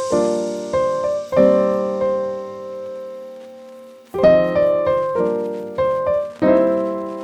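Background piano music: chords struck and left to ring and fade, with a short pause partway through.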